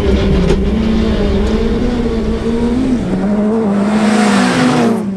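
VW Polo rally car engine running hard, its note shifting a little as the revs change. About four seconds in, a rush of tyre and surface noise builds up over it.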